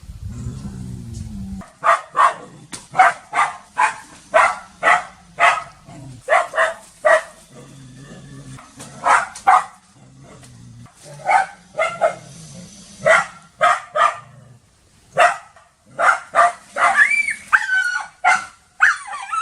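A dog barking repeatedly in runs of about two barks a second, with a drawn-out, falling whine near the end. A low rumble is heard for the first second and a half, before the barking starts.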